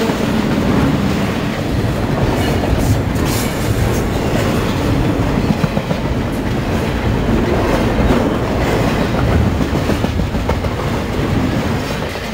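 Double-stack intermodal freight train's well cars rolling past close by: a steady, loud low rolling noise of wheels on rail with scattered short clacks, growing quieter near the end.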